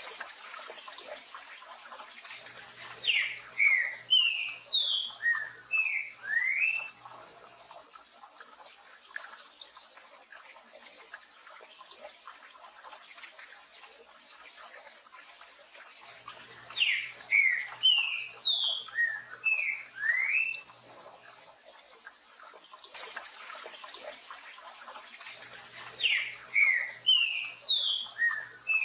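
Green-winged saltator (trinca-ferro) singing its 'tio joão pedro boi' song: three phrases of about seven quick, sliding notes each, roughly ten seconds apart, the last one cut off at the end. Steady rain hiss runs underneath.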